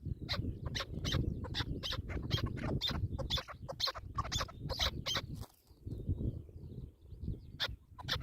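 Partridges calling in a rapid series of short, sharp notes, about three a second, pausing briefly twice, over a low rumble.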